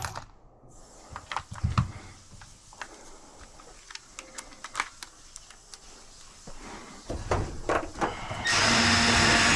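Scattered clicks and knocks of parts and tools being handled, then, about a second before the end, a loud steady motor starts running with a humming tone.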